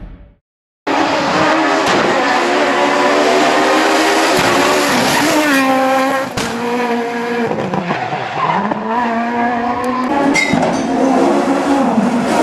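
Super 1600 rally car's high-revving 1.6-litre four-cylinder engine running hard, cutting in abruptly about a second in. Its pitch falls in the middle and again a little later before climbing back, as the car changes gear and accelerates.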